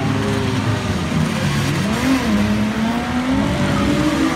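Several demolition-derby cars' engines revving at once. Their pitches rise and fall as the cars accelerate and back up against each other.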